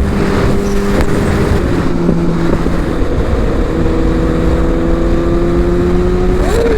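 Sportbike engine under way over heavy wind noise on the microphone: a steady engine note that steps down in pitch about two seconds in, then climbs slowly as the bike accelerates, and drops sharply near the end.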